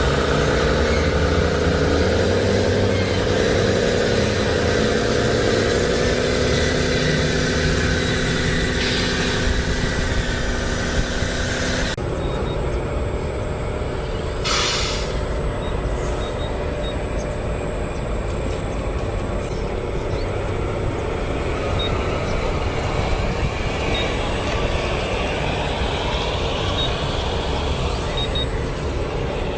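Radio-controlled construction vehicles running, with an engine-like drone that wavers in pitch. About twelve seconds in the sound changes abruptly to a steadier rumble, and a short hiss like an air brake follows a couple of seconds later.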